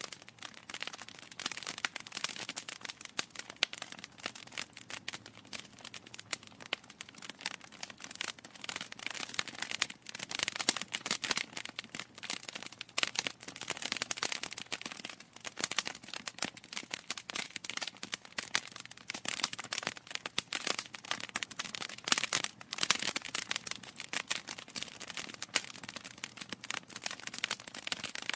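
Wood fire crackling in a fireplace: a dense, irregular stream of small pops and snaps from burning logs.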